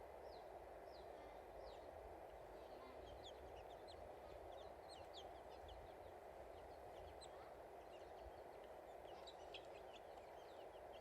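Faint chirping of several small birds: many quick, high chirps, busiest in the middle and near the end, over a steady low background hum.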